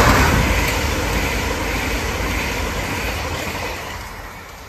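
Class 395 Javelin electric train passing at speed: a loud rush of air and wheels on the rails, loudest at first and fading steadily as it runs away down the line.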